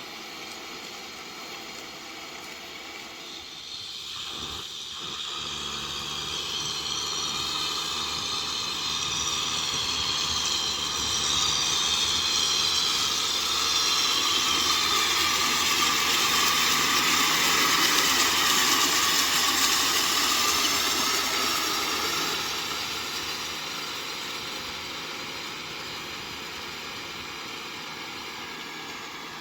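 Kubota M6040SU tractor's diesel engine running with a rotavator at work. It grows steadily louder to a peak a little past the middle, then fades again.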